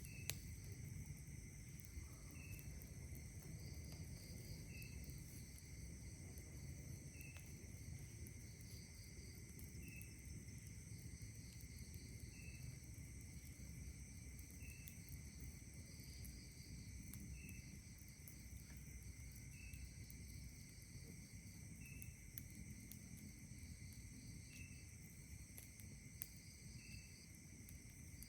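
Faint night insect chorus: several steady high-pitched trills, with a short chirp repeating about every two and a half seconds. There are a few faint crackles from the campfire.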